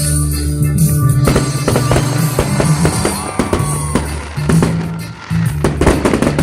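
Loud music with a heavy bass line and drums, mixed with sharp bangs of fireworks going off, several close together near the end.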